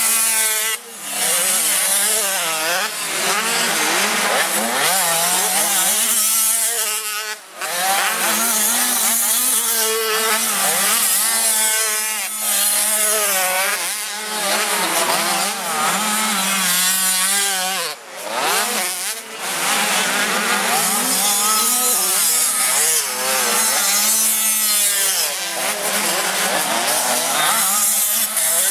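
85 cc two-stroke motocross bikes running, their engines revving up and falling back over and over as they work the track, over a steady low hum. The sound dips sharply for a moment three times.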